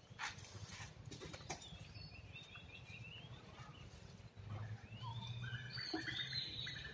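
Faint bird chirping, repeated short calls, with a few clicks and knocks in the first second and a half.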